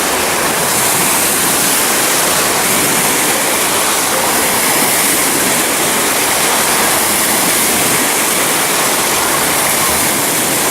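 Steady, loud rush of falling and splashing water, even and unbroken throughout.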